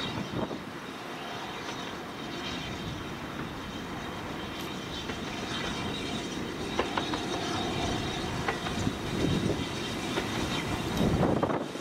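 Train rolling past on the heritage line with a steady rumble and occasional sharp clicks, growing louder near the end.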